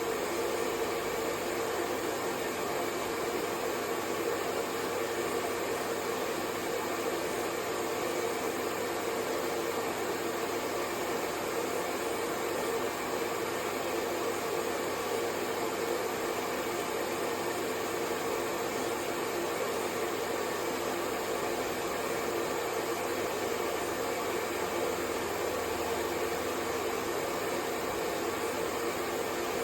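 Hair dryer running steadily: an even rush of blown air with a constant motor hum, unchanging throughout.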